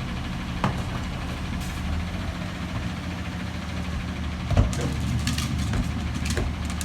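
Peterbilt McNeilus front-loader garbage truck's engine running steadily at idle, with a sharp knock under a second in and a heavier metallic clank about four and a half seconds in, followed by a few light clicks.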